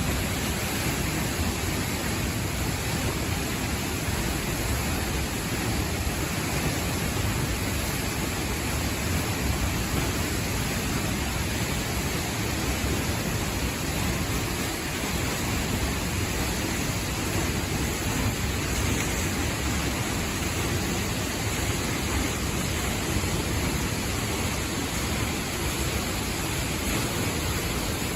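Steady, even rush of a 32-metre waterfall plunging into a rocky gorge, heard close by.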